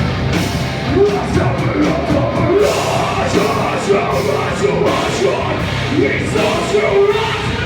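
Live heavy rock band playing loud, with drums and distorted guitar, and a voice yelling over the music.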